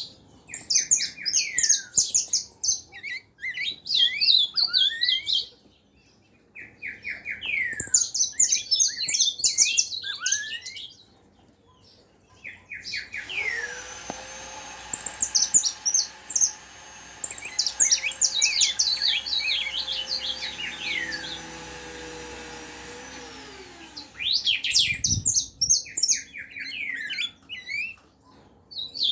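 A songbird known locally as 'rey de bosque' singing in phrases of rapid chirps and falling whistles, with short pauses between phrases. For about ten seconds in the middle, a steady motor hum runs under the song, rising in pitch as it starts and falling as it stops. A single low thump comes shortly after the hum ends.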